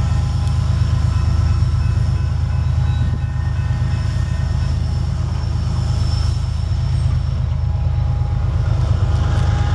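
Diesel freight locomotives working hard up a mountain grade: a loud, steady low engine drone with a fast, even pulse and faint thin high tones above it.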